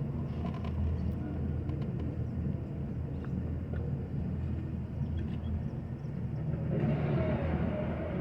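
An engine running steadily with a low rumble, growing louder and fuller about seven seconds in.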